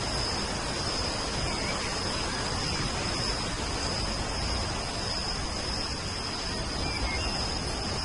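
Steady rain falling, with a continuous high insect trill over it and a few faint, short bird chirps about two seconds in and again near the end.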